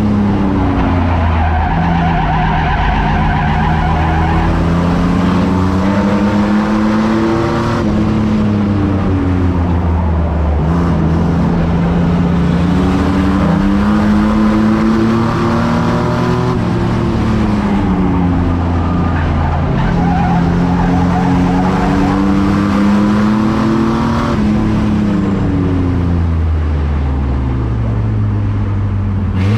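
Racing trucks' engines running hard in an enduro race. The engine pitch rises and falls again every several seconds, as on the straights and turns of a lap, over a constant din of motors and tyres.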